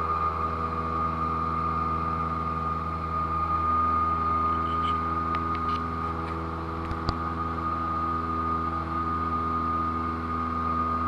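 Cessna 172 piston engine and propeller running at steady power, heard inside the cockpit as a constant drone with a steady high tone above it. A faint click sounds about seven seconds in.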